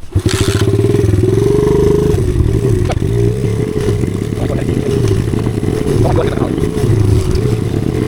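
Pit bike's small single-cylinder engine running loud and fairly steady as the bike is ridden, with a few faint clicks.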